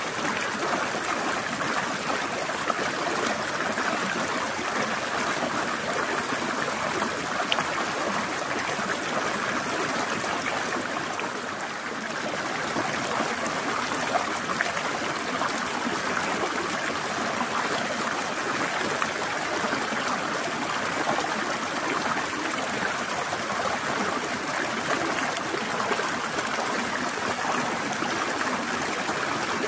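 Forest stream flowing steadily, with a continuous trickling, gurgling rush of water. It eases slightly for a moment about twelve seconds in.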